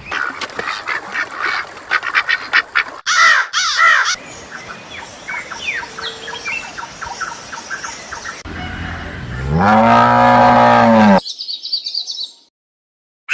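Birds chirping and calling in a busy mix, with a louder run of calls about three seconds in. Near the end, one long, low call from a large animal, rising at the start and falling away at the end, followed by a few faint high chirps.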